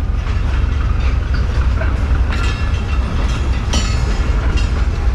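Departing passenger train rolling along the platform track: a steady low rumble of coaches on the rails, with two brief sharp metallic squeals from the wheels about two and a half and four seconds in.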